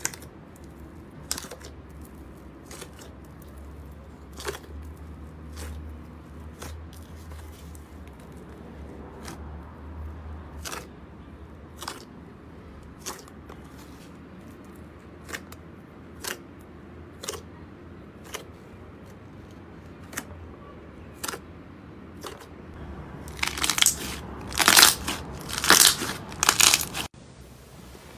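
Slime being handled: small sharp pops and clicks about once a second, then a few seconds of louder, dense crunching and crackling near the end that cuts off suddenly.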